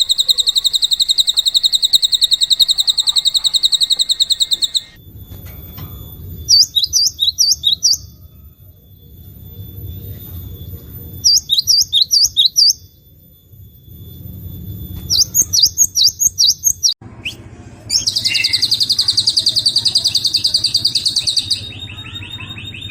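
Recorded songbird calls edited back to back: a fast, high, buzzy trill, then three separate bursts of quick, high falling notes, then after an abrupt cut another fast high trill.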